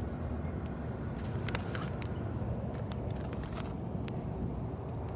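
Steady low rumble of expressway traffic, with scattered sharp clicks and ticks over it.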